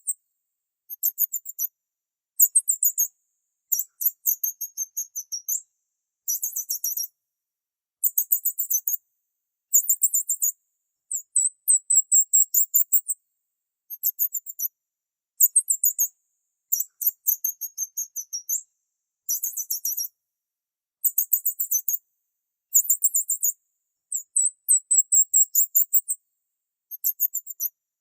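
Small bird chirping in quick, very high-pitched series, each burst of rapid notes lasting about a second, repeated again and again with short silent gaps.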